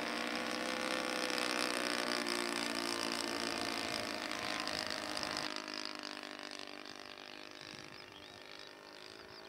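Engine of a radio-controlled model Cessna Aerobat 152 running in flight, a steady buzzing drone with slight shifts in pitch. It drops away suddenly about five and a half seconds in and stays fainter.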